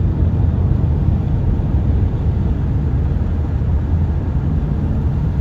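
Steady low rumble of a vehicle on the move, with road and engine noise heard from inside the cab.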